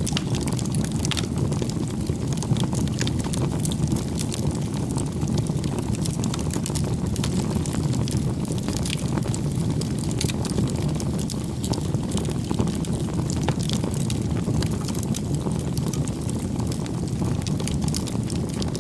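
Crackling campfire: a steady low rumble of burning wood with frequent small, irregular pops and snaps.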